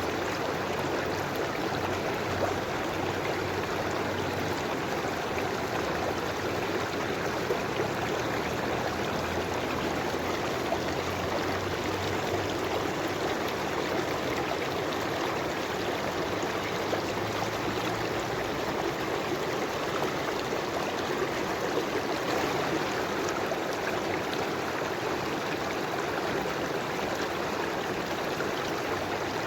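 River water flowing steadily over stones, a constant rushing and gurgling with no pauses or changes.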